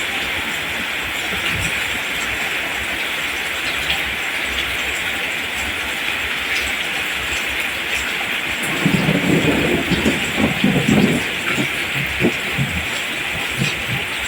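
Steady heavy rain hissing, with a low rumble of thunder swelling about two-thirds of the way through.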